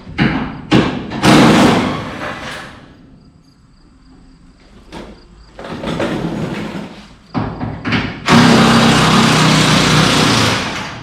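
Impact wrench run in several bursts to tighten bolts, the longest, about two seconds of steady hammering, near the end.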